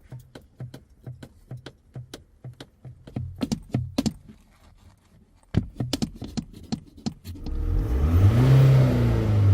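A quick series of sharp clicks and taps over a low diesel hum, then the Ford Transit van's diesel engine revving hard, its pitch rising to a peak and falling back, near the end.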